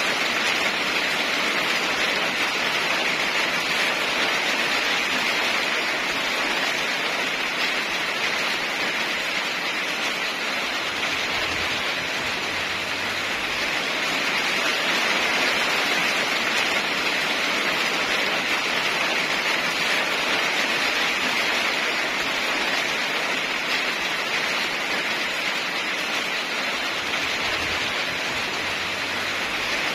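Steady heavy rain, an even hiss with no thunder.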